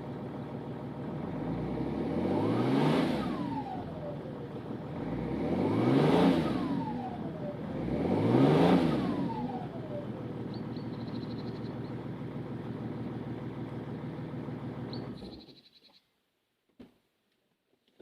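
Mercedes-Benz 320 CDI's OM648 3.2-litre straight-six diesel, shortly after a cold start at −10 °C, idling and then revved three times, each rev rising and falling away. It settles back to idle and is switched off about fifteen seconds in, with two short high beeps before it stops.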